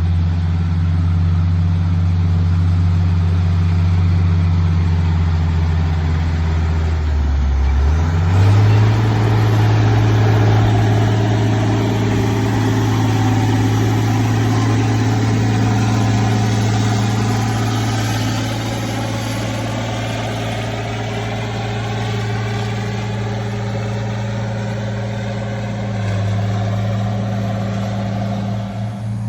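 An engine running steadily; about eight seconds in it speeds up to a higher, steady pitch and holds there.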